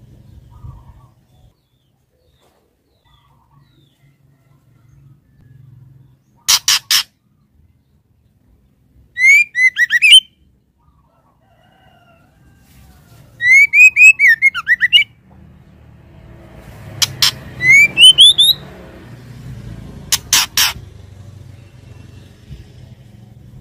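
Female white-rumped shama calling to draw a male: a few sharp clicking notes and two short runs of quick, rising chirps, then a single rising chirp.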